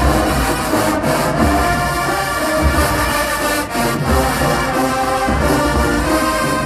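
HBCU marching band playing loudly, a full brass section holding chords over heavy bass drum beats about every second and a half.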